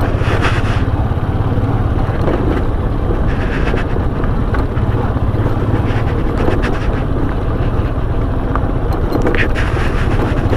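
Motorcycle running at a steady speed on a road, a constant engine hum under road noise.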